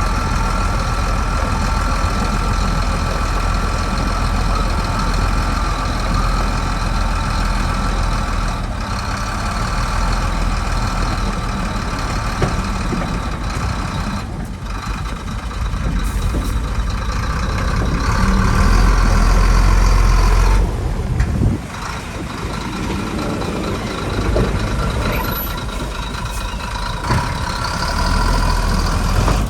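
Heavy diesel earthmoving machinery running under load, engine noise with a steady high whine over it. It swells louder about two-thirds of the way through, then drops off suddenly.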